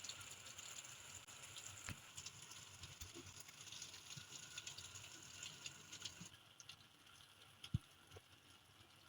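Light rain pattering, with scattered drops ticking on surfaces; it thins out after about six seconds, and one sharper drip sounds near the end.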